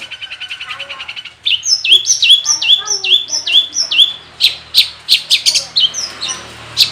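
Long-tailed shrike (cendet) singing a song packed with mimicked notes. It opens with a fast, even trill, then repeats a falling whistle about three times a second, and closes with a string of sharp chips.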